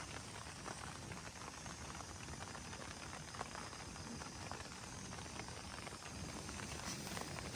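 Steady rain pattering on a tent: an even hiss of many small drops.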